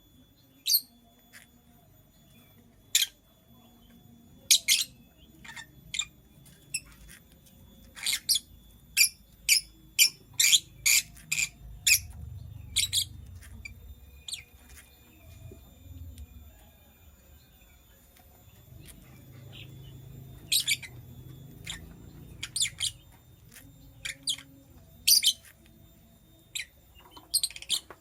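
Lovebird giving many short, shrill chirps at irregular intervals, coming thick and fast about a third of the way in and more scattered later.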